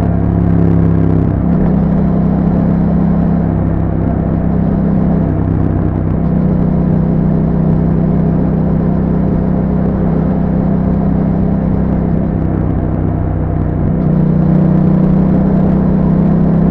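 2021 Yamaha MT-07's 689 cc parallel-twin engine heard through an aftermarket Akrapovic exhaust with a Yahom dB killer, under way at a steady cruise. The engine note lifts and eases a little with the throttle a few times.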